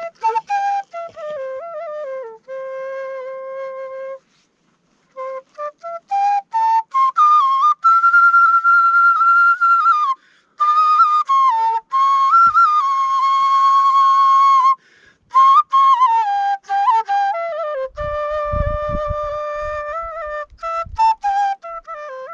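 Murali, the Nepali bamboo flute, playing a folk melody solo, with held notes, quick ornamented runs and short breaks for breath. A brief low rumble comes about three-quarters of the way through.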